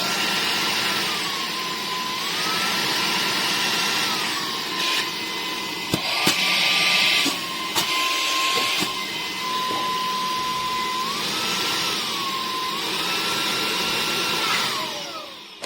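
EBOSSOM cordless handheld vacuum cleaner running, its motor whine rising and falling in pitch every couple of seconds over a steady rush of air, with a few knocks in the middle. Near the end the motor winds down and the sound falls away.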